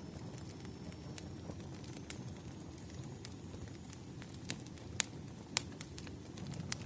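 Wood fire crackling: a low steady rush with scattered sharp pops and snaps, the two loudest about five and five and a half seconds in.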